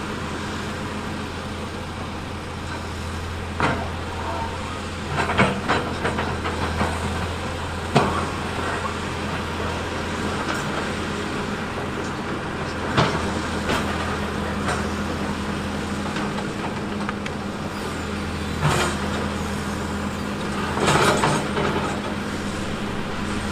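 Heavy earthmoving machine's diesel engine running at a steady hum, with sharp clanks and knocks every few seconds. They bunch together a quarter of the way in and again near the end.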